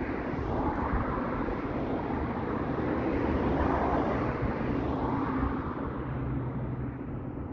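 A train running past on the line: a steady running noise whose higher part dies away near the end as it moves off.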